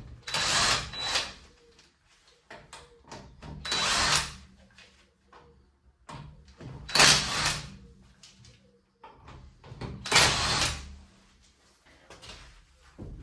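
Power tool running in four short bursts of about a second each, roughly three seconds apart, while the rear wheel's bolts are taken off, with small clicks and knocks in between.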